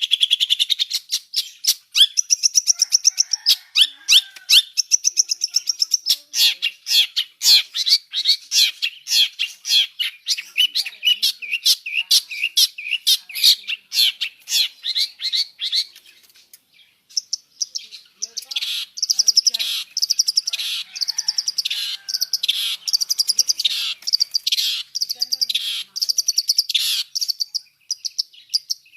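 Long-tailed shrike singing a fast, varied song packed with mimicked calls of other birds: rapid strings of high chirps and trills, breaking off briefly a little past the middle, then resuming with repeated short notes.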